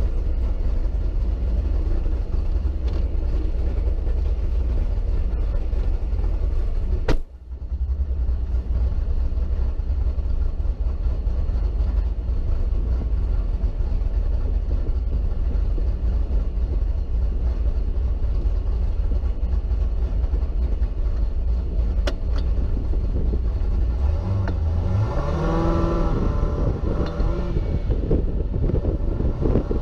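Procharger F1X-supercharged V8 of a C6 Corvette Grand Sport running with a heavy, steady low rumble, heard from inside the cabin. There is a sharp click with a brief dropout about seven seconds in. About 24 seconds in the revs rise as the car pulls away.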